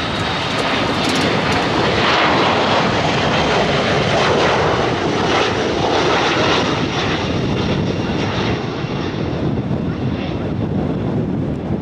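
Airliner's engines as it flies past: a loud, steady rush that is strongest in the first half and eases off toward the end.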